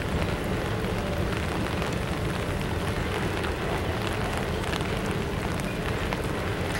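Double-stack intermodal freight cars rolling slowly across a steel girder bridge: a steady rumble with faint rattling ticks.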